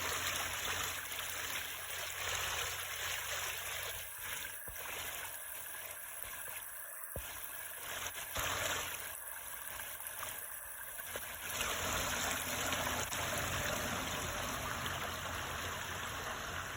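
Water running and trickling steadily in a garden fountain, its level dipping a little now and then.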